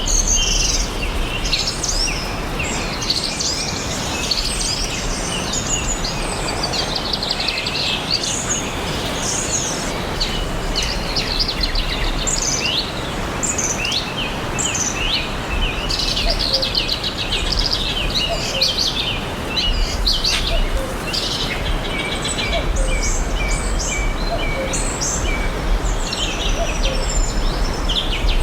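Many small songbirds chirping and trilling at once, high-pitched calls overlapping over a steady background hiss of forest ambience.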